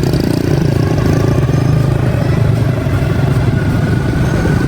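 Motorbike engine running steadily at an even speed.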